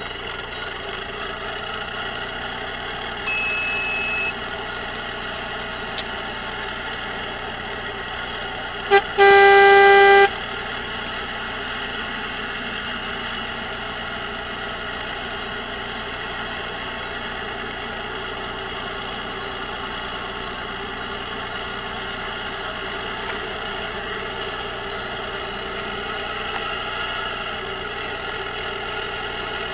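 Sound unit of a radio-controlled model Kenworth W900 truck playing a steady diesel engine running. A brief high beep sounds about three seconds in. Near nine seconds in there is a short toot, then an air-horn blast of about a second, the loudest sound.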